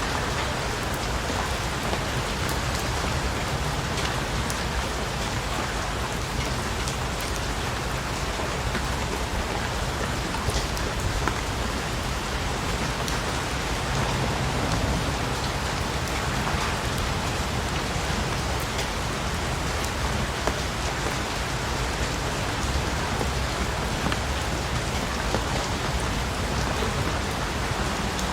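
Steady rain falling on a surface, an even hiss with many individual drops tapping through it.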